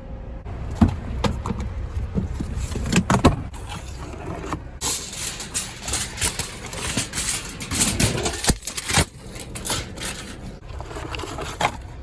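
Handling noise of a phone being moved about on a magnetic mount close to the microphone: irregular clicks, knocks and scraping, over a low steady rumble.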